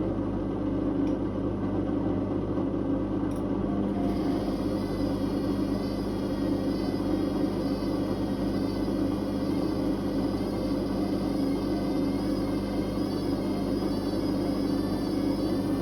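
Whirlpool Indiana 1400 washing machine spinning at high speed: a steady whir and rumble. About four seconds in, a faint wavering higher whine joins it.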